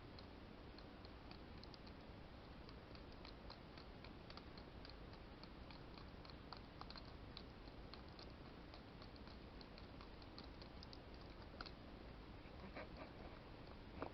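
Near silence: faint steady room hiss with scattered faint, irregular high ticks.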